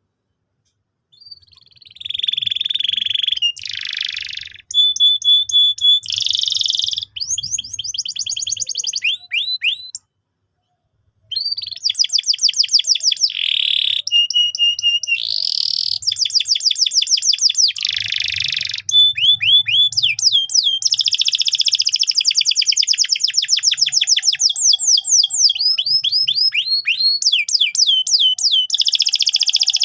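Canary singing a long, loud song of fast trills and rapidly repeated rolling notes mixed with short held whistles. It breaks off briefly around ten seconds in, then resumes and runs on continuously.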